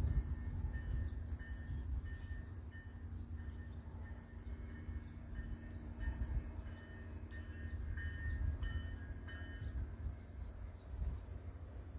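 Small birds chirping repeatedly over the low rumble and faint steady hum of a distant approaching passenger train.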